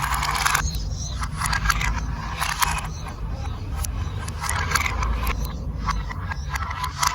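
Marbles rolling and clattering along a plastic building-block marble run: a steady rolling rumble with scattered sharp clicks and short rattles.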